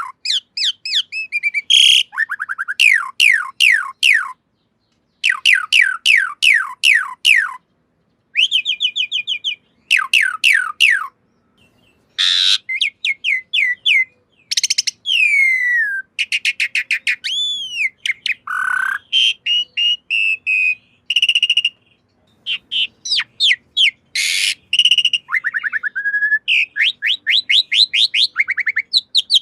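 Pied starling (jalak suren) singing: quick runs of falling whistled notes, several a second, mixed with varied chattering and sliding phrases and broken by short silences.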